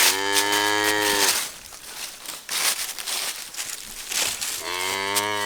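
Jersey milk cow mooing twice, two long low calls about three seconds apart, the second running on to the end, as she calls to her newborn calf. Rustling of straw can be heard between the calls.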